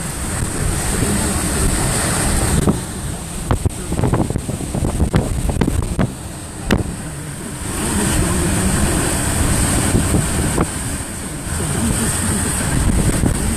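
Hurricane eyewall wind of around 110 to 120 mph gusting and buffeting the microphone, rising and falling in waves. Scattered sharp knocks come in the middle, from things striking nearby.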